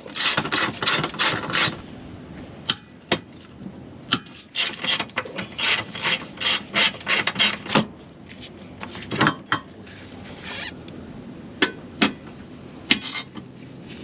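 Ratchet wrench being worked, clicking in quick runs of about four strokes a second, with single sharp clicks and knocks between the runs.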